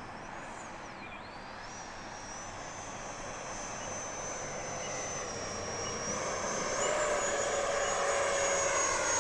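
Electric ducted fan of an FMS Rafale RC jet in flight: a high whine that shifts slightly in pitch as the jet loops, growing louder over the last few seconds.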